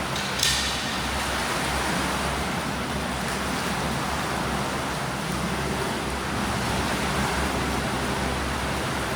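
Swimming-pool ambience: steady churning water noise, with a short sharp splash about half a second in.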